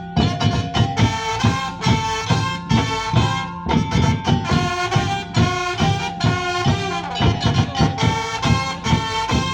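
Madurese ul-daul traditional music: a wind-instrument melody over a steady, fast percussion beat.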